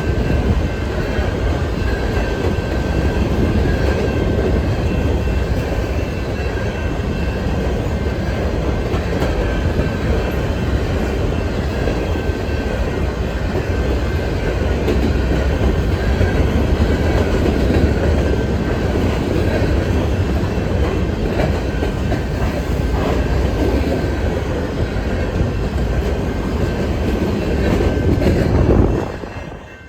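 Freight train of empty grain hopper cars rolling past, steel wheels rumbling and clicking over the rail joints, with a faint steady squeal from the wheels. The sound cuts off abruptly near the end.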